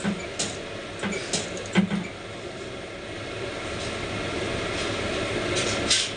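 Sharp metal clinks and knocks from tools and parts during repair work on a dough divider, over a steady rumbling background noise.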